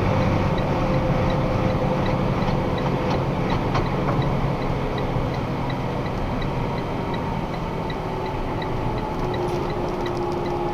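Steady engine and road noise inside a box truck's cab while driving, with a turn signal ticking evenly at about three clicks a second.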